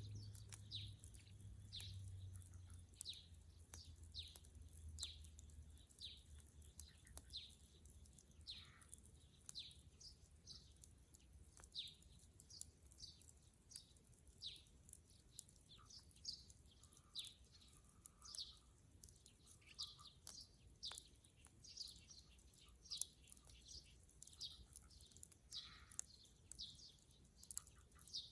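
Faint bird chirping: short downward-sliding chirps repeated about once or twice a second, with a few faint clicks from the crackling wood fire and a low rumble that fades out in the first few seconds.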